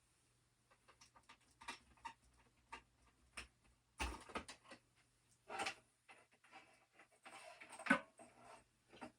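Irregular knocks, clicks and scuffs of objects being handled, with a louder thump about four seconds in and a sharp knock near the end.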